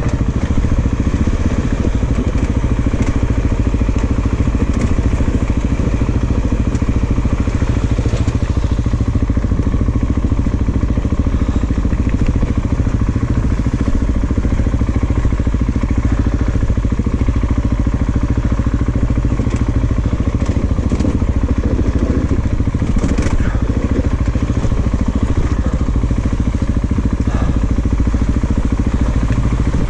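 690cc single-cylinder dual-sport motorcycle engine running steadily at low speed on a rough mountain trail, with a few short knocks.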